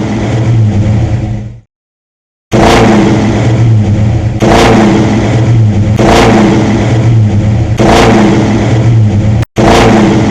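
Car engine running loud and revving in repeated swells, each starting sharply, about every one and a half to two seconds; it cuts out briefly after the first second and a half and again near the end.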